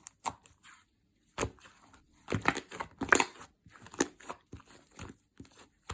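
Clear slime mixed with iClay foam clay being squished and pressed by hand, giving irregular sticky crackles and clicks.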